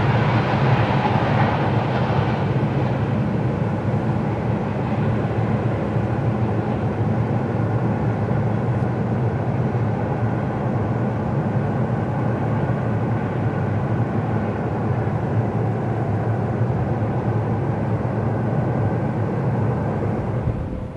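Long freight train rolling steadily past, a continuous rumble of its wagons on the track, a little louder in the first couple of seconds.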